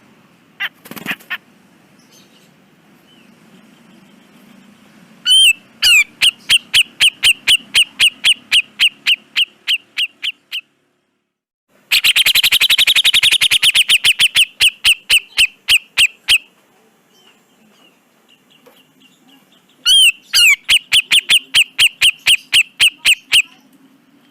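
Cucak jenggot (grey-cheeked bulbul) calling in rapid runs of short repeated notes. After two brief calls about a second in, three runs of several seconds each follow, the middle run the fastest.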